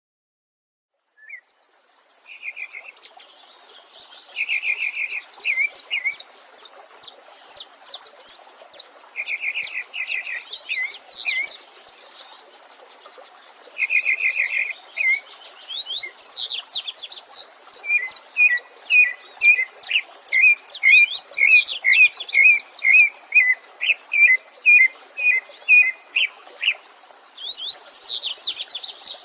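Several songbirds singing at once over a faint, even rush of running stream water. It starts after a couple of seconds of silence, with repeated fast trilled phrases and many high chirps; past the middle one bird settles into a regular run of notes about two a second.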